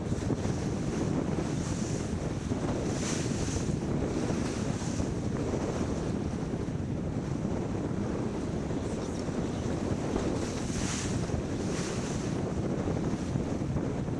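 Wind buffeting the microphone over water rushing along the hull of a sailboat underway, with a few brief louder hisses.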